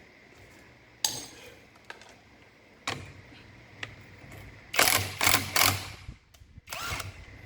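Metal clicks and clanks of a 17 mm wrench turning a flywheel puller's centre bolt to press the magneto flywheel off a Honda Titan 150 engine. Single clicks come at first, then a cluster of loud sharp strokes about five seconds in and one more near the end.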